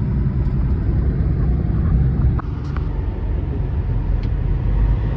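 Loud, steady vehicle rumble and road noise, with a few faint clicks.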